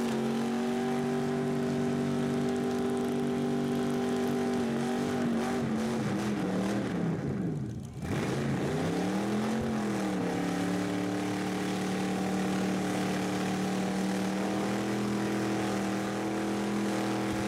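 Car engine held at high revs with a steady pitch. About six seconds in the revs sink away, then climb back, and the engine is held high again to the end.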